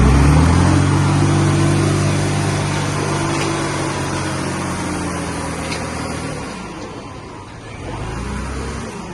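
A heavy machine's diesel engine revving up, then running steadily under load before dying down about six and a half seconds in; a lower engine hum comes back briefly near the end.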